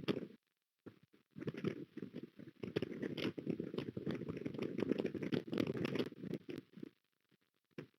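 Gusty wind buffeting the nest camera's microphone, with crackling and rustling of the nest's sticks, dying away about seven seconds in.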